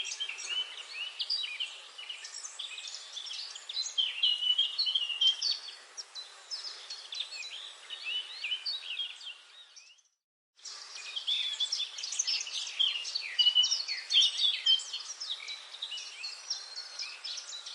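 Dense chorus of many birds chirping and singing over one another above a faint hiss, cutting out to silence for about half a second near the middle.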